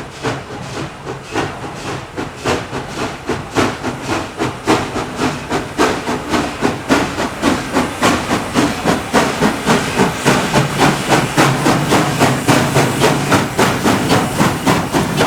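Steam locomotive CNJ 113, an 0-6-0 switcher, working at slow speed: a steady run of evenly spaced exhaust chuffs with steam hiss, growing louder as it approaches.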